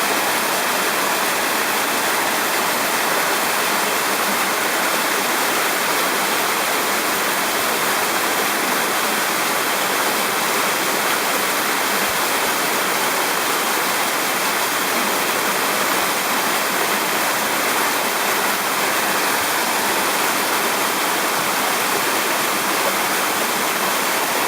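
Steady rush of water from a waterfall or fast canyon stream.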